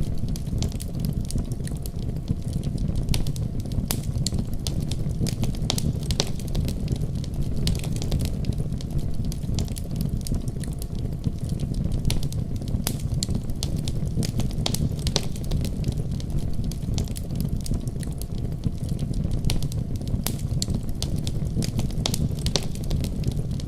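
Wood fire crackling, with frequent sharp irregular pops, over a steady deep rumble of a winter storm.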